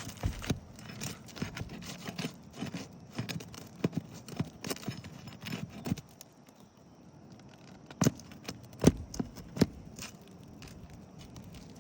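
Hand tool working a roofing nail out from under asphalt shingles: a run of light taps, clicks and scrapes, then a few sharper knocks about eight to ten seconds in.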